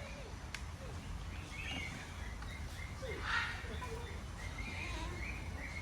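Birds chirping: short high chirps repeated over and over, with one brief harsher call a little past three seconds in, over a low steady rumble.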